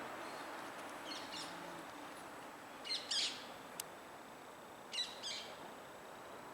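A bird calling in short, high chirps in three quick groups, about one, three and five seconds in, the middle group loudest. A single sharp click comes just before the fourth second.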